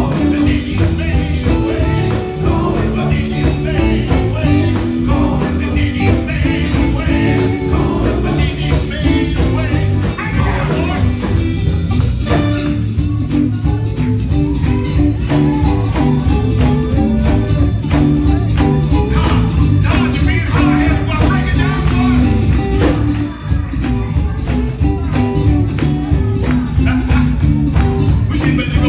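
Live gospel band music with voices singing over a busy tambourine and a low bass line.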